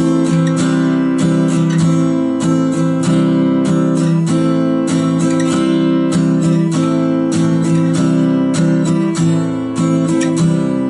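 Acoustic guitar strummed in a steady rhythmic pattern, changing back and forth between C major and A minor chords every couple of seconds.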